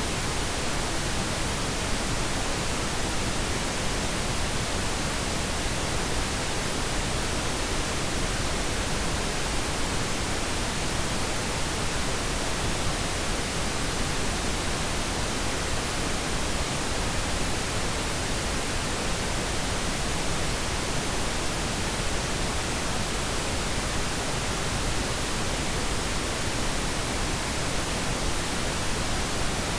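Steady, even pink noise: a soft, unchanging hiss spread over the whole range from deep to high, with no events in it.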